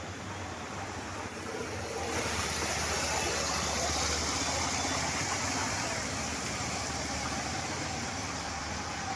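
Rushing, splashing floodwater over a low steady vehicle engine hum; the water noise grows louder about two seconds in.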